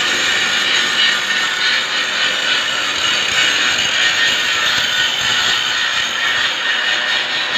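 Loud, steady mechanical noise with a fine rattling clatter running through it, unbroken throughout.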